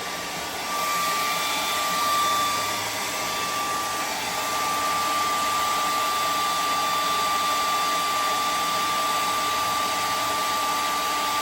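Handheld hair dryer blowing hot air steadily with a thin steady whine, getting louder about a second in. It is warming a cold nitro RC engine to make it easier to start.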